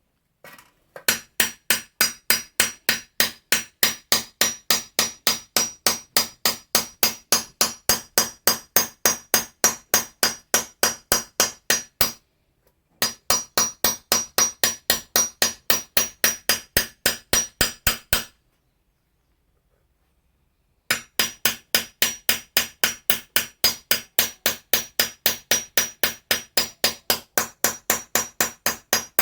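A hammer peening the edge of an Austrian scythe blade: steady metallic blows, about three or four a second, each with a clear high ring. The strikes stop briefly twice, once for under a second and once for a few seconds.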